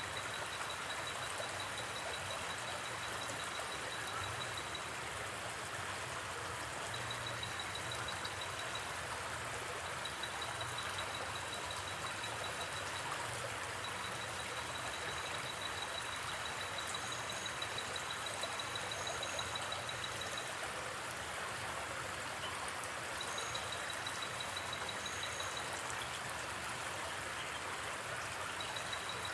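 Steady rush of a gently flowing river, with a high pulsing trill that comes and goes in runs of a few seconds and a few faint high chirps.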